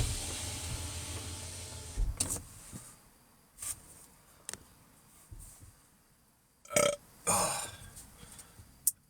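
A man burping on a stuffed stomach after eating a whole pizza: one long, low burp that fades over the first two seconds, then a few shorter, softer sounds.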